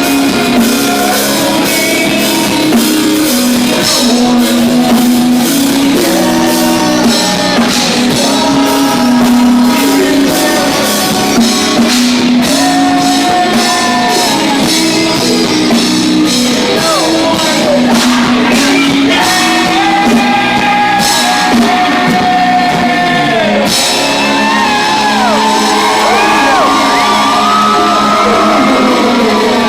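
Loud live rock band playing in a large hall, with a singer over electric guitars and drums. Sliding pitches come in the last third.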